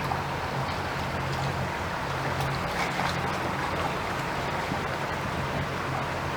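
Boat motor running steadily at cruising speed, a low hum under the rush of water and wind past the hull.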